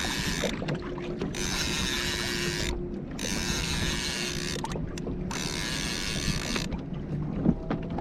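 Fishing reel being cranked, a mechanical whirring and clicking, while fighting a barracuda from a kayak, with water washing against the hull in surges every second or two.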